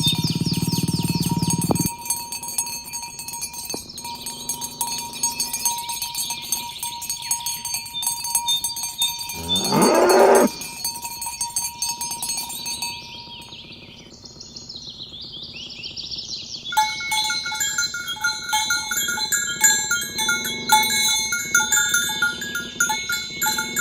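Cattle mooing, the loudest a single call rising in pitch about ten seconds in, with high chirping of small birds or insects in the background. Bells ring over and over in the last third.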